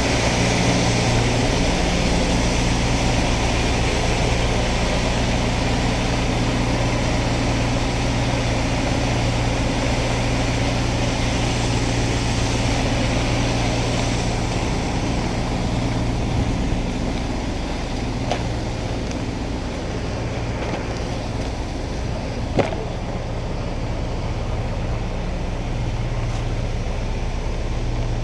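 An engine running steadily with a low hum, easing off slightly past the middle; a sharp click sounds once near the end.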